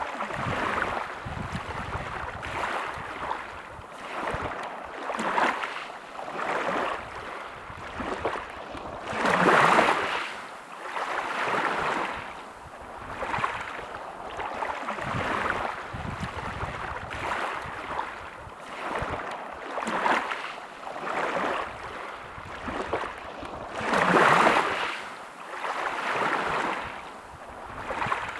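Sea waves washing in against the shore, a rushing noise that rises and falls in surges every second or two, with two bigger waves breaking about ten seconds in and again near the end.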